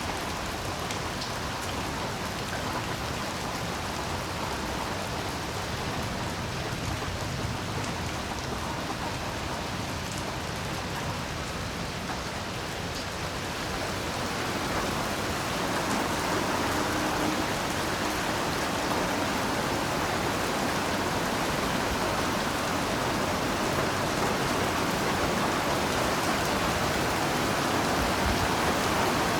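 Heavy rain falling steadily as a dense, even hiss of drops, swelling louder about halfway through.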